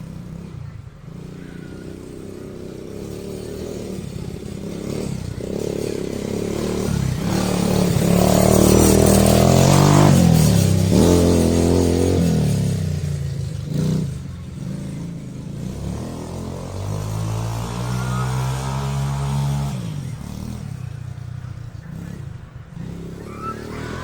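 Quad bike engine revving as it rides, its pitch rising and falling with the throttle, loudest about ten seconds in.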